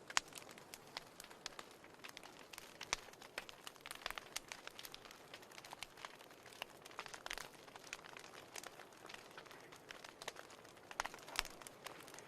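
Wood fire crackling in a fireplace: frequent sharp pops and snaps over a soft hiss, with louder pops just after the start and about eleven seconds in.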